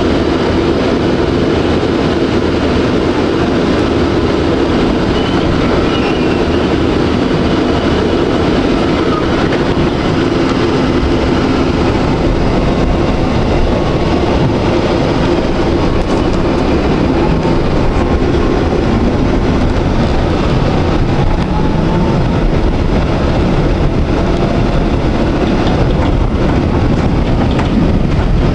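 Electric tram running along its track: steady rolling noise of steel wheels on rails. A faint rising whine comes in about two-thirds of the way through.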